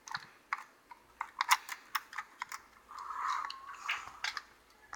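Irregular light clicks and taps from model train cars and their couplers being handled, with a brief soft rustle about three seconds in.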